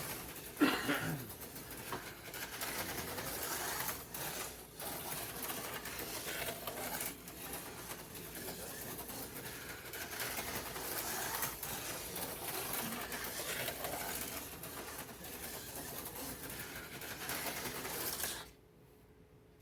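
HO-scale slot cars' small electric motors whirring around the track, rising and falling as the throttles are worked. The sound stops abruptly near the end.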